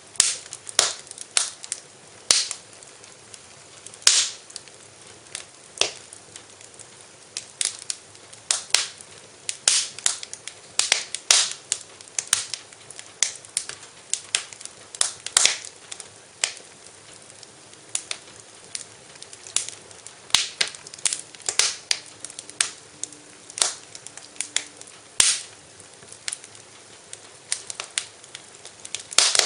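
Wood fire crackling in a fireplace: irregular sharp pops and snaps, often several a second, over a soft steady hiss.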